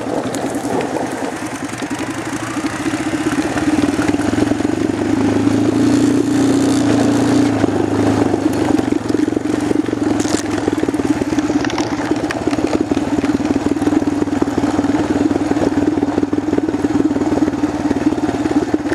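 A 250 cc four-stroke ATV engine running as the quad is ridden. It rises in loudness a few seconds in, then holds a steady note.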